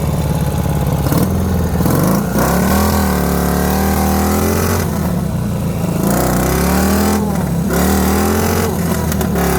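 Dnepr MT-11 motorcycle's boxer-twin engine revving up and down again and again under load, as the bogged-down sidecar outfit tries to drive out of the mud.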